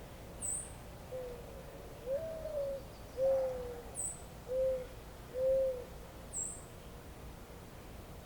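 A bird's low hooting or cooing phrase of five notes, the second long and rising, the rest short and arched. Three brief, very high chirps from a small bird come between them, over a steady low outdoor hiss.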